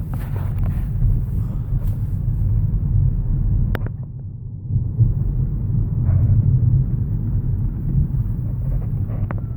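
Steady low road and tyre rumble inside the cabin of a Peugeot 208 electric car on the move, with no engine note, and a single sharp click about four seconds in.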